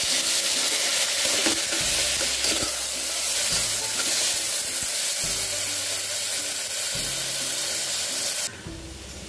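Chopped tomatoes and onions sizzling steadily in hot oil in an aluminium pressure cooker as they are stirred. The sizzling drops off abruptly about eight and a half seconds in.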